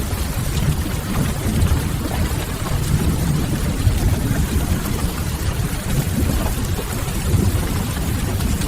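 Steady rain ambience with a low rumble, mixed with the faint crackle of a wood fire.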